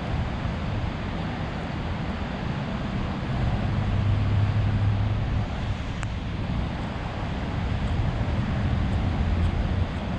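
City street ambience: a steady background of traffic noise with a low rumble that swells twice, about four seconds in and again near the end, as vehicles go by. A single sharp click about six seconds in.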